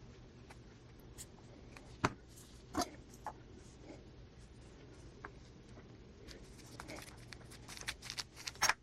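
Paper-craft handling at a desk: scattered soft taps, clicks and rustles of paper and trim being handled and pressed onto a journal page, with a sharper tap about two seconds in and the clicks growing busier near the end.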